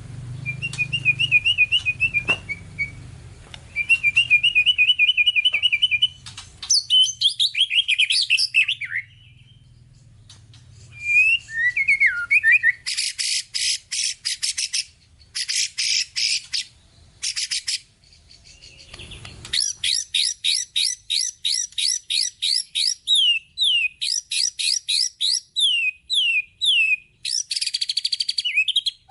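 White-rumped shama (murai batu) singing a varied, mimicry-filled song. It opens with short repeated trills, turns to harsh buzzy bursts in the middle, then runs into quick series of rising whistled notes.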